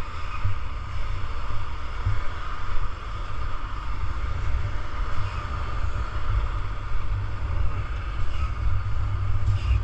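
A heavy gravel truck's engine running steadily, a continuous low rumble, with wind buffeting the microphone.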